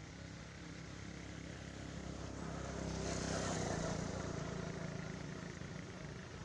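A motor vehicle's engine passing by: a steady engine hum that grows louder to a peak about halfway through, then fades away.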